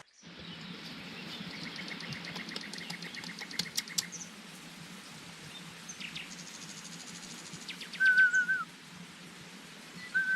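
Wild birds calling: a rapid, even trill a second or two in, then a loud warbling whistle about 8 seconds in that starts again near the end, over a steady low hum.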